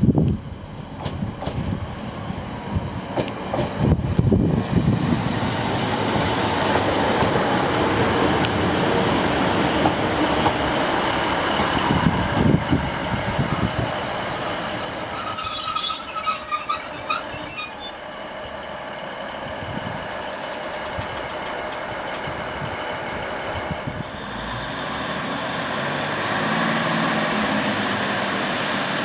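Train moving along the track with a heavy rumble and wheel thumps, then a high metallic squeal for about three seconds past the middle. Near the end a steady low engine hum sets in.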